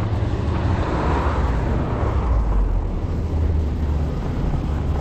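Steady wind rumble on the microphone with tyre and road noise while riding a fat-tire e-bike, with a swell of traffic noise about a second in.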